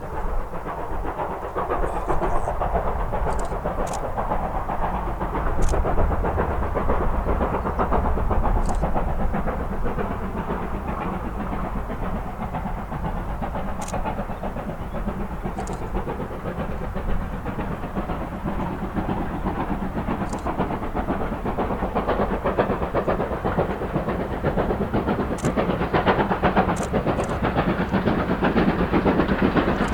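A steam-hauled train running past on the line: steady, dense rumble and rattle of the locomotive and its carriages, with a few short sharp clicks scattered through.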